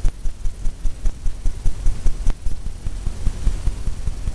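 A paintbrush loaded with white oil paint tapped rapidly against a pre-stretched canvas, giving a steady run of low thuds, about five a second, as the paint is dabbed in for breaking wave foam.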